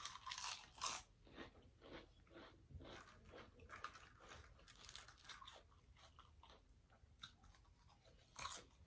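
Potato chips being bitten and chewed: faint, irregular crisp crunches, a little louder in the first second and again near the end.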